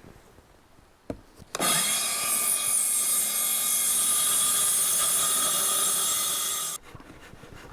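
Handheld circular saw cutting a wooden board. After a couple of clicks the motor spins up about a second and a half in, cuts steadily for about five seconds, and stops abruptly near the end.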